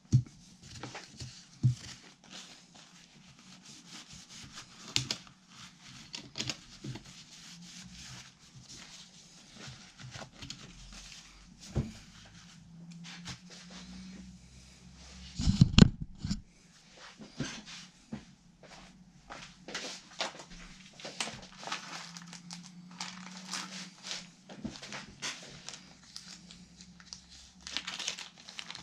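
Hands at work on guitar parts: irregular rustling and crinkling with many small clicks and taps, and one heavier knock about halfway through, over a faint low hum.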